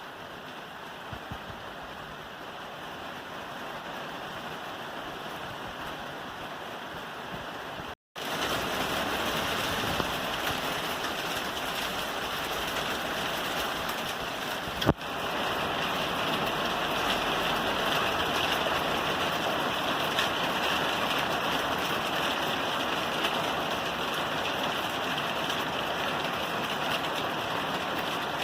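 Steady rain falling on a roof, an even hiss. About eight seconds in it cuts out for a split second and comes back louder. One sharp click sounds about halfway through.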